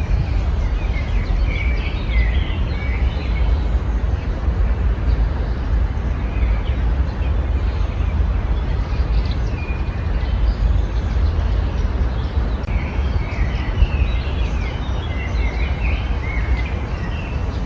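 Small songbirds chirping and twittering in bursts, busiest in the first few seconds and again in the last few, over a loud steady low rumble.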